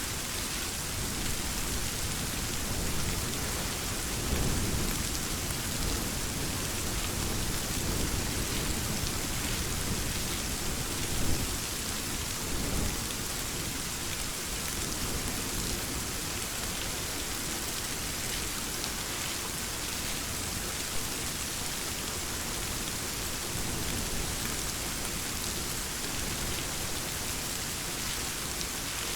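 Steady heavy rain, a dense even hiss of falls and drops. Low thunder rumbles swell up about four seconds in and again briefly around eleven seconds.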